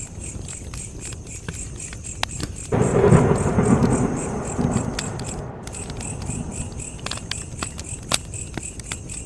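Wood fire crackling with sharp pops, over crickets chirping in a fast, even high pulse. About three seconds in, a low rumble comes in suddenly and fades away over the next few seconds.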